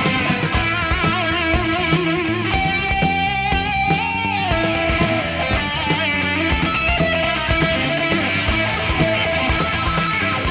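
Hard rock instrumental passage: an electric lead guitar holds long notes with wide vibrato, one of them sliding down about four seconds in, over bass and a drum kit.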